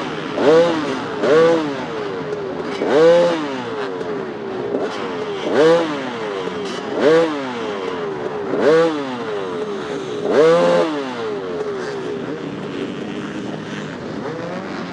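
Off-road motorcycle engines running, with the throttle blipped sharply about seven times in quick revs that rise and fall. Near the end the blips stop and the engines run steadily.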